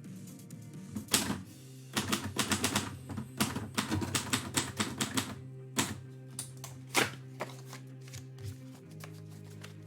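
Typewriter keys striking in quick runs with short pauses, over steady background music.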